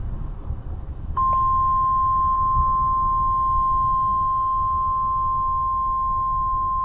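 NOAA Weather Radio warning alarm tone: a single steady high beep that starts about a second in and holds on. It announces a tornado warning. A constant low rumble runs underneath.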